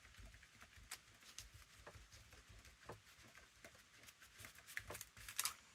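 Faint scattered light taps and soft rustles of paper being handled and pressed down on a journal cover, in near silence.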